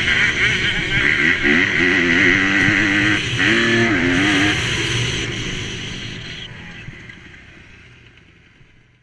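Motocross bike engine running hard, its pitch rising and falling with the throttle, fading out over the last few seconds.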